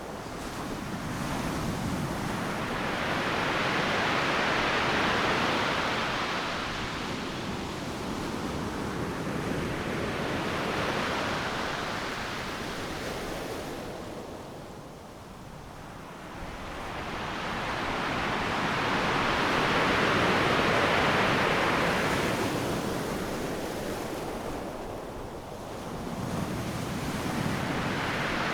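Ocean surf breaking on the shore: a rush of wave noise that swells as each wave crashes and fades as it washes back, in slow surges several seconds apart, loudest about twenty seconds in.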